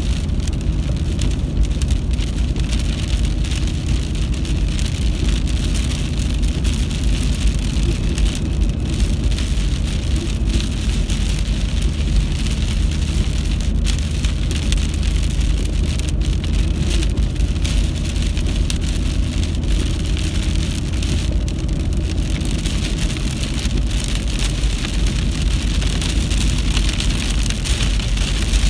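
Steady heavy rain in a storm, a constant hiss with many small pattering ticks over a continuous low rumble.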